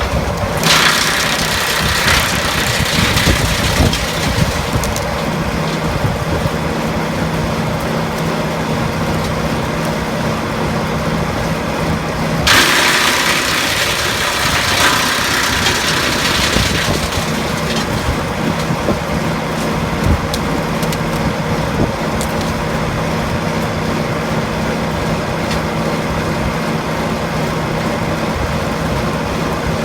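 Demarol R10 branch chipper, driven by a Leus LS R60 tractor, running steadily over the tractor engine's hum. Twice it chews through fed branches, a loud shredding noise lasting about four seconds each time: once right at the start and once about twelve seconds in.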